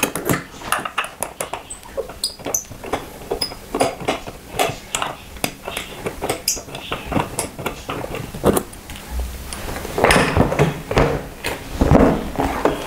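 Hand tools clicking and clinking on metal as the cap head bolts holding a motorcycle seat are undone, in irregular sharp clicks with a few short pings. About ten seconds in come louder, denser knocks and rattles.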